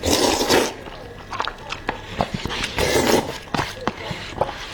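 Noodles being slurped up in two long, noisy slurps, one at the start and one about three seconds in, with small wet mouth clicks of chewing between them.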